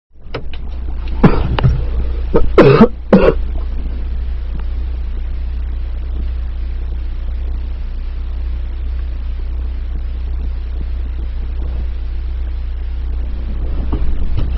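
A person coughing several times in quick succession in the first few seconds, over a steady low rumble that continues afterwards.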